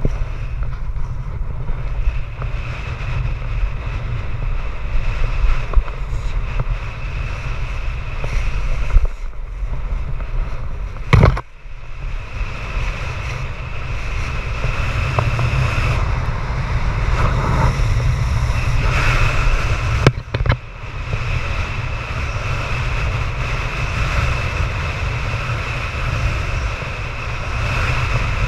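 Strong wind buffeting the microphone, a heavy, gusting low rumble. There are two sharp knocks, about 11 seconds in and about 20 seconds in.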